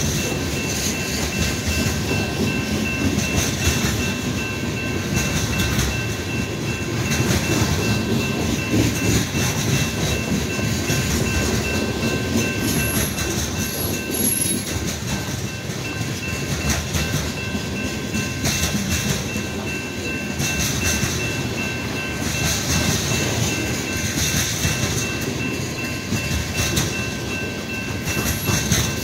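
BNSF covered hopper cars of a grain train rolling past at a grade crossing: a steady rumble with the clickety-clack of steel wheels over the rail joints.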